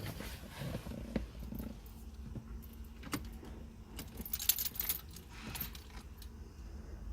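A bunch of car keys jangling, loudest about four seconds in, among scattered light clicks and knocks of handling.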